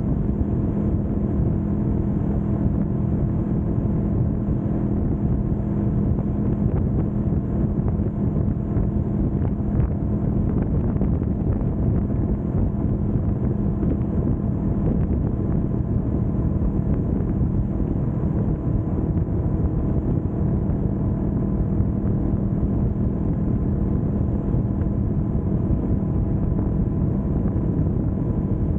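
Kawasaki Vulcan S 650's parallel-twin engine running at a steady speed while cruising on an expressway, its pitch unchanging, with wind rushing over the microphone.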